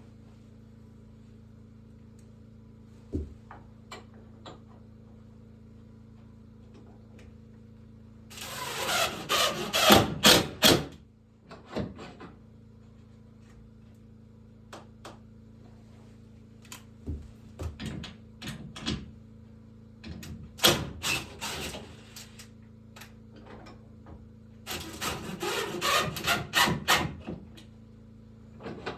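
Woodworking noise: scattered knocks on wood and two longer stretches of rasping, scraping work, over a steady low hum.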